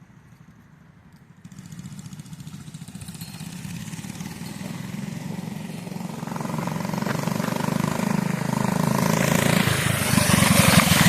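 Mini bike's small single-cylinder engine, fitted with a PZ19 round-slide carburetor, running under throttle as the bike rides, faint at first and growing steadily louder as it approaches, loudest near the end.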